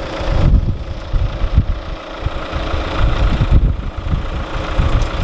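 Car engine idling to jump-start a van with a flat battery, under gusty wind buffeting the microphone.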